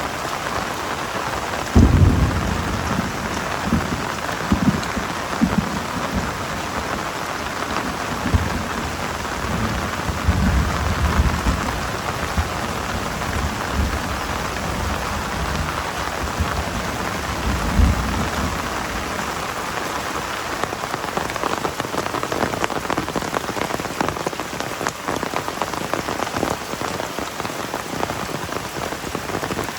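Heavy rain falling steadily. About two seconds in a low rumble starts and keeps swelling and fading until past halfway, then only the rain is left.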